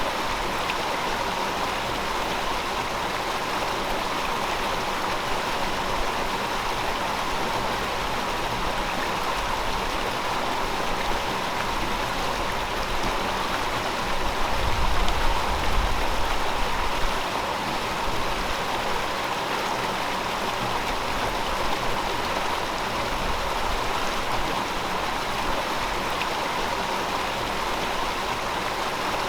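River water flowing in a steady, even rush, with a brief low rumble swelling about halfway through.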